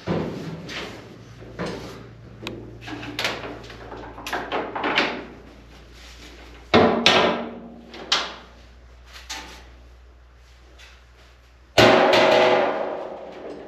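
Metal tools and tool-chest drawers being handled: a run of knocks and clatters, with two loud metal bangs, about seven and twelve seconds in, that ring on briefly.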